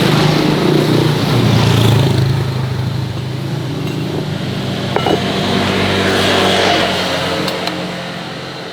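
An engine running steadily, its level easing off over the last few seconds.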